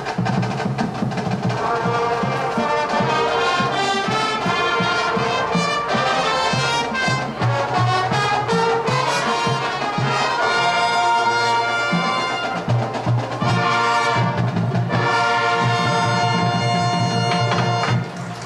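Elementary school marching band playing brass with percussion, the trumpets and trombones moving through a phrase and ending on a long held chord that cuts off near the end.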